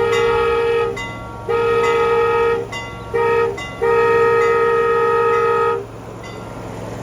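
Miniature train's horn sounding four blasts, long, long, short, long: the grade-crossing signal. A low steady hum runs underneath.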